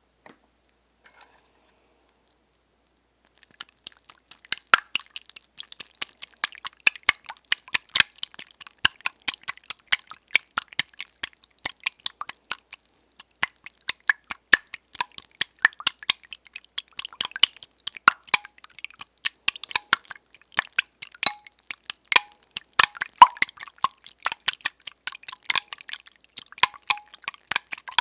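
Eggs being beaten in a bowl for ASMR, close to the microphone: a quick run of wet clicks and clinks, several a second, that starts about three seconds in.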